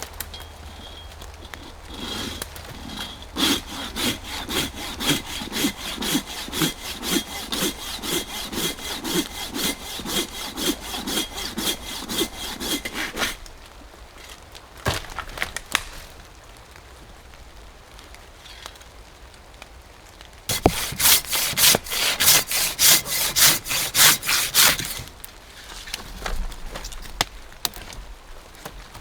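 Hand saw cutting through wood in steady back-and-forth strokes, about two a second, for around eleven seconds; after a pause with a couple of knocks, a second, faster bout of sawing for about five seconds.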